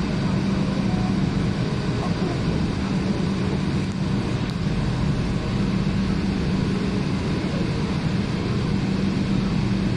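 Running noise inside an electric train car in motion: an even, steady noise with a low steady hum throughout.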